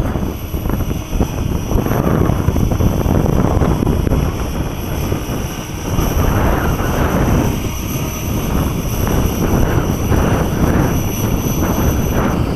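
Electric 550-size RC helicopter in flight with a steady high whine from its motor and rotor, under heavy wind buffeting on the microphone. The whine stops shortly before the end.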